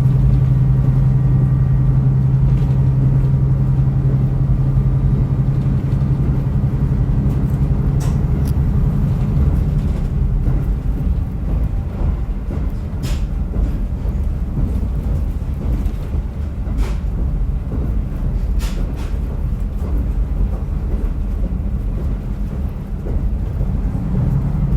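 Diesel railcar heard from inside while under way: its engine runs steadily under power, then drops away about ten seconds in, leaving wheel and track rumble with occasional sharp clicks. The engine comes back in near the end.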